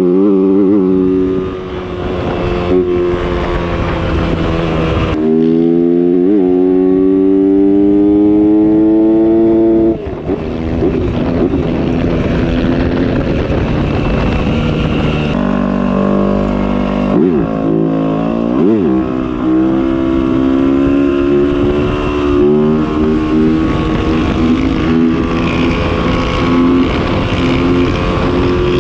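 Motocross dirt bike engine running hard while riding. The revs climb steadily for several seconds, then drop sharply at a shift about ten seconds in, with quick dips and rises of the throttle later on.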